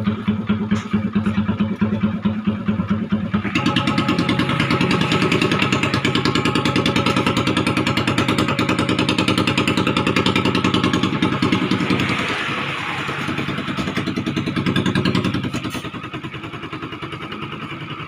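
Motorcycle engine running through its exhaust muffler on test. It idles, is revved up and held higher from about three and a half seconds in, eases back, gets one short rev, then settles back toward idle near the end.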